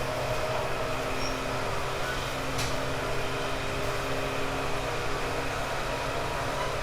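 Running sound inside a 1978-built JNR 189 series electric train's motor car at steady speed: MT54 DC traction motors and gearing hum in a few held tones over wheel and rail rumble. One sharp click from the track about two and a half seconds in.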